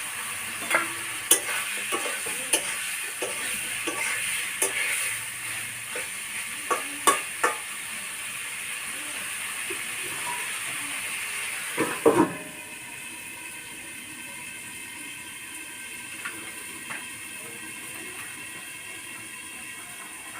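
Chicken curry sizzling in a pot while being stirred, the utensil knocking and scraping against the pot at irregular intervals. About twelve seconds in, a few louder knocks come, then the sound drops to a quieter steady hiss.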